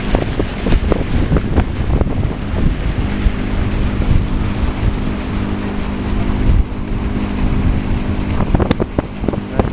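Motorboat engine running steadily under way, with wind buffeting the microphone and a couple of short knocks, one about a second in and one near the end.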